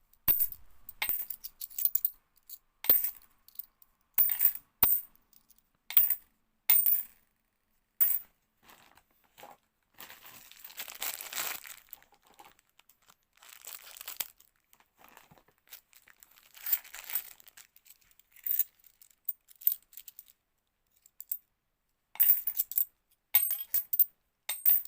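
50p coins clinking and clicking against each other as they are handled and sorted, in irregular sharp chinks with a short ring. About ten seconds in, a softer, noisier stretch of coins being shuffled and slid together.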